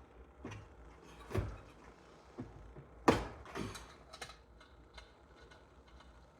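Hand tools and engine parts knocking and clicking while a small engine is taken apart, about seven separate short knocks, the loudest about three seconds in.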